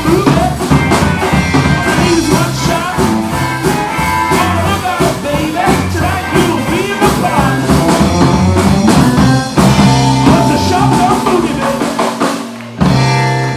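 Live rock-and-roll band with drum kit playing a driving, uptempo number. It stops briefly near the end, then hits one last loud chord.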